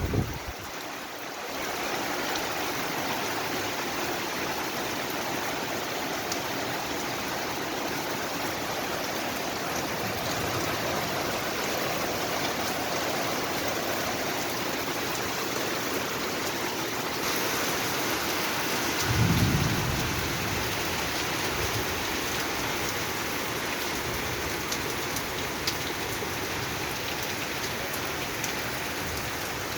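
Steady rain falling, with a brief low rumble about two-thirds of the way through.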